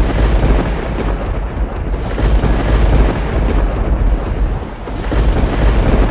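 Thunderstorm sound effect: a loud, continuous rumble of thunder, deep and rolling, with a rain-like hiss joining about four seconds in.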